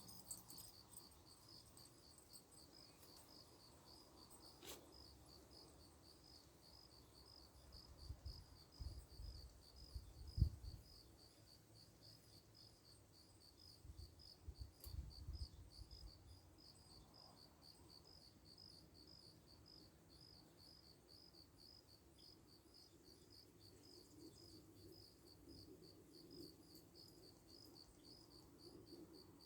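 Crickets chirping faintly in a steady, even rhythm of a few high chirps a second. A few low bumps come near the middle, the loudest about ten seconds in.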